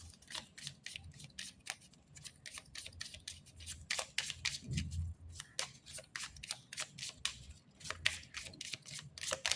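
A deck of oracle cards being shuffled and handled: a fast, irregular run of sharp papery clicks and flicks of card stock.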